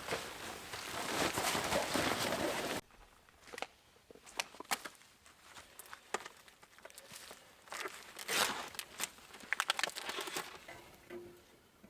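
A dense rustling hiss for about three seconds that cuts off abruptly, then scattered light clicks and short bursts of crinkling and crackling from things being handled.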